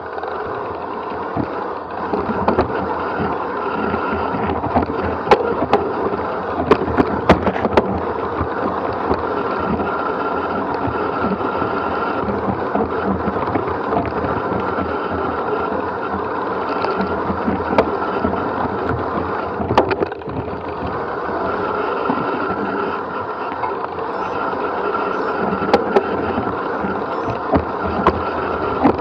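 A bike descending a rough forest trail: tyres rolling and crunching over dirt and stones, with many sharp rattles and knocks from the bike and its camera mount, and wind rushing over the microphone.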